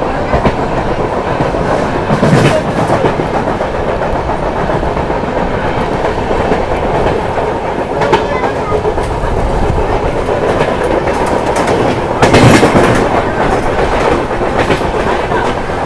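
Express passenger train running along the track, heard from aboard: a steady, loud noise of wheels on rails, with louder surges about two seconds in and again about twelve seconds in.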